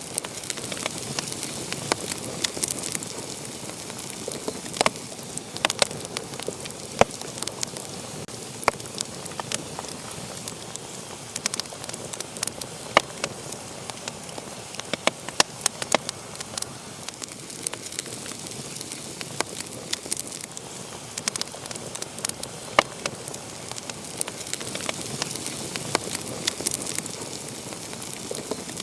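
Wood fire burning in a fireplace, a steady hiss with sharp pops and crackles at irregular moments.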